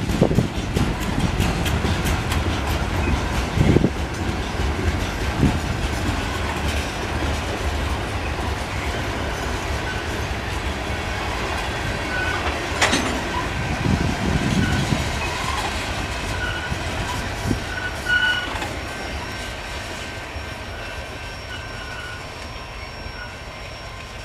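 Freight cars rolling past on the rails: steel wheels thumping over rail joints with a clickety-clack, short high wheel squeals and one sharp clank about halfway through. The sound fades over the last few seconds as the end of the train moves away.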